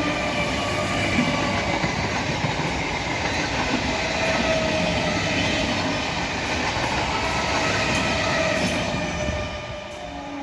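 A train running past at speed: a steady rush of wheels on rail with some clatter and faint wheel squeal, easing off near the end.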